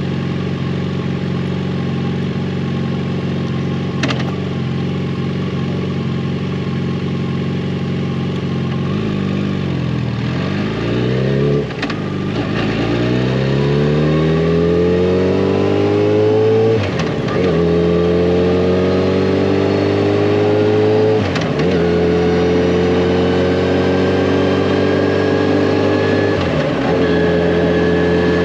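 Yamaha FJR1300 inline-four motorcycle engine running at a steady speed, then pulling away about nine seconds in, with its revs climbing and dipping at four upshifts. One short click about four seconds in.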